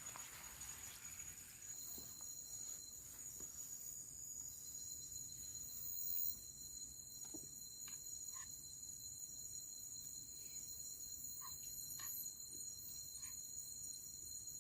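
Insects chirring steadily at several high pitches, with a few faint scattered clicks.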